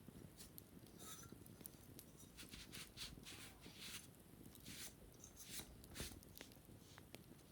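Faint scratching and rubbing on a wicker basket during cleaning, a run of short strokes with scattered light clicks and taps.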